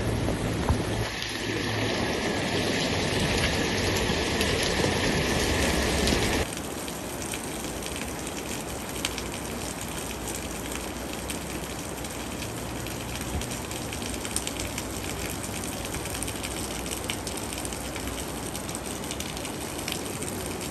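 Steady rush of flowing floodwater and rain, loud for about the first six seconds, then cutting abruptly to a quieter, even rush.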